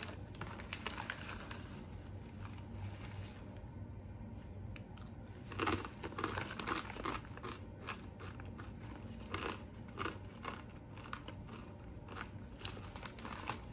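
Someone crunching and chewing corn nuts (hard toasted corn kernels) while eating. The bites come at irregular intervals, with the loudest cluster of crunches about six seconds in.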